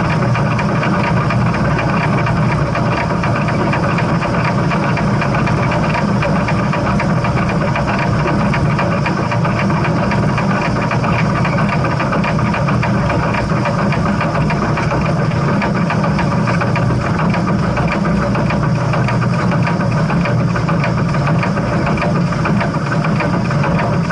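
Steam train running steadily: a continuous low rumble with a fine, rapid rattle that holds unchanged throughout.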